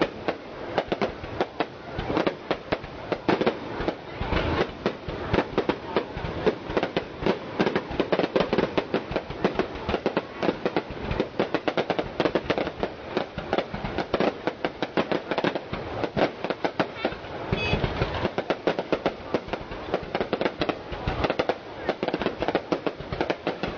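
Aerial fireworks display: a dense, rapid crackle of bursting shells, with louder, deeper bangs now and then.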